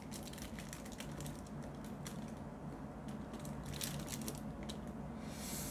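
Light, irregular clicking of small plastic diamond-painting drills being picked up and set onto the adhesive canvas, with a few denser runs of clicks, over a low steady hum.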